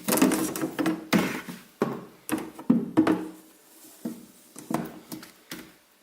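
Removable freezer divider being handled and set into place: a string of irregular knocks and clatters, about two a second.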